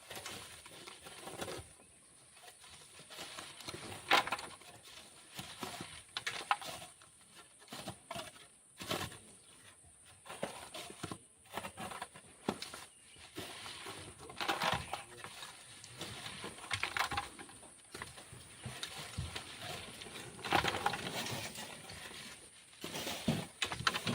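Irregular scrapes and knocks of black sand being dug and shovelled by hand, a few louder strokes standing out among softer ones.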